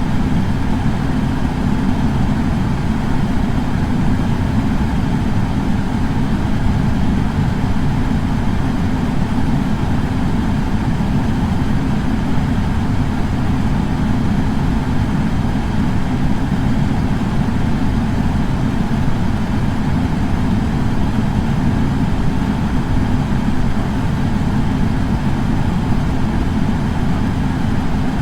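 Air purifier fan running steadily: an unchanging low rush of air with no starts, stops or clicks.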